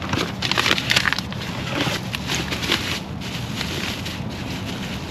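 Cardboard parts boxes being handled and opened: a run of quick crackles and scrapes in the first second or so, then scattered ones.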